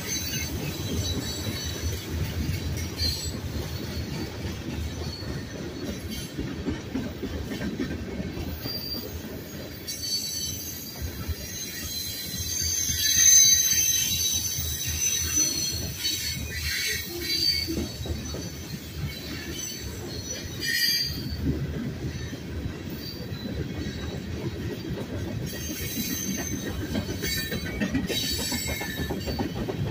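Tank cars and covered hopper cars of a Union Pacific manifest freight train rolling past: a steady rumble of steel wheels on rail with high-pitched wheel squeal that comes and goes, loudest about halfway through.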